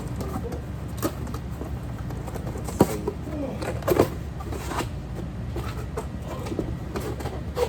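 Steady low rumble with a few sharp clicks and knocks, the loudest about three and four seconds in, and a faint voice in the background.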